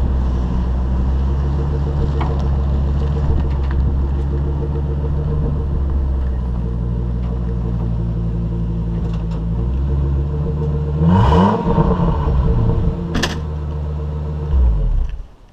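Stock Ford 6.8-litre V10 engine and exhaust running steadily under way. About eleven seconds in it revs briefly, rising then falling. A sharp click follows a couple of seconds later, and the engine sound drops away suddenly near the end.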